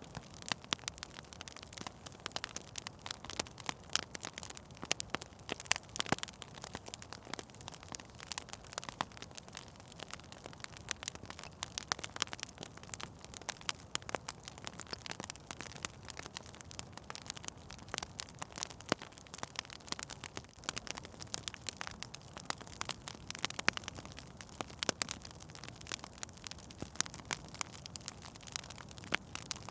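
Wood fire burning in a fireplace, crackling and popping irregularly over a low steady hiss.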